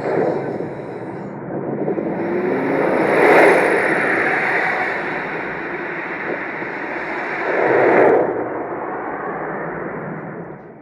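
A continuous noisy rush like a passing vehicle or aircraft, swelling loudest about three seconds in and again about eight seconds in.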